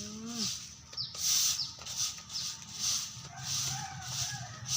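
Domestic cat meowing: one call trailing down at the start and a fainter, wavering one about three and a half seconds in, over soft rhythmic hissing about twice a second.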